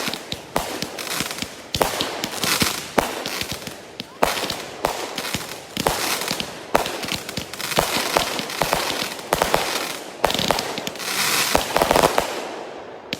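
Consumer aerial firework cake firing: a quick succession of sharp bangs from shells launching and bursting, with stretches of dense crackling between them.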